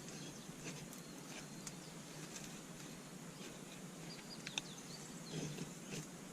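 Wood fire crackling, with irregular sharp pops and snaps scattered through, and a few faint high chirps.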